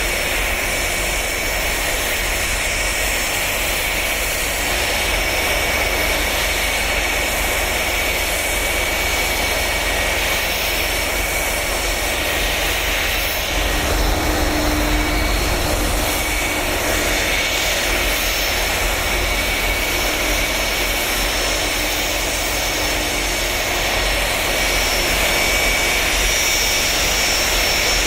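Boeing 757 jet engines running steadily: a continuous whine over a low rumble.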